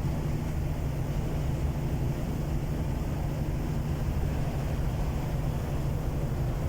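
DR1B diesel multiple unit under way: a steady low drone of the diesel engine and running gear, even and unbroken.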